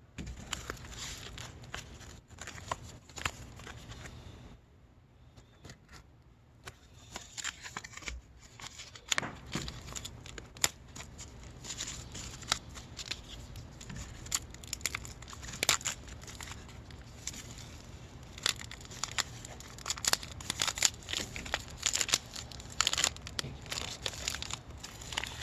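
Close-miked crinkling and tearing of a pepperoni and cheddar snack's packaging, mixed with eating sounds: irregular sharp crackles, with a quieter pause about five seconds in.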